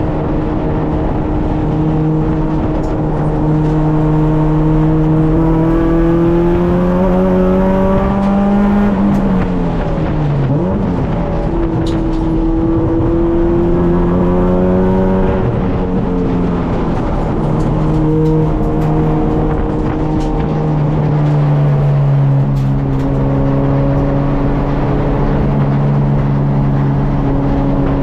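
Honda K24 inline-four in an EK Civic running steadily at mid-range revs, its pitch slowly climbing, dropping sharply about ten and sixteen seconds in, then settling lower for the last few seconds.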